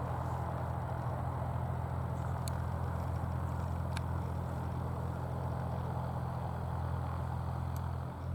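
An engine idling, a steady low hum with no change in pitch.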